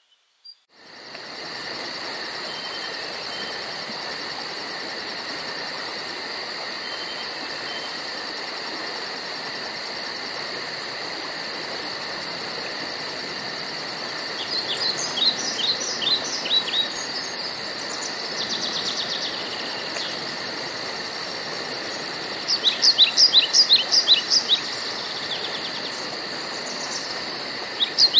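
Woodland ambience: a steady chorus of insects with a fast high pulsing, with birds singing over it in phrases of quick falling notes, loudest about two-thirds of the way in and again at the end. The sound fades in from silence within the first second.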